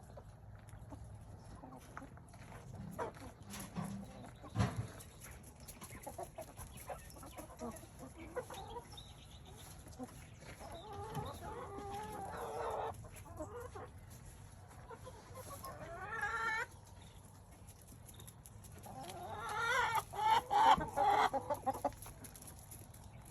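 Domestic hens clucking and calling in and around a coop. There is a rising call about two-thirds of the way through and a louder run of calls near the end, with a single knock about five seconds in.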